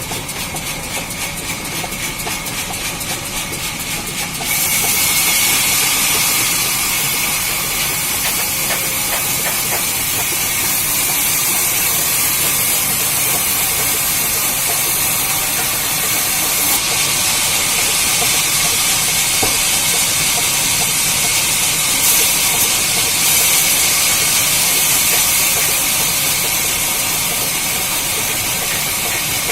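Sawmill saw cutting through a log: a steady hissing noise, strongest in the highs, which steps up louder about four and a half seconds in.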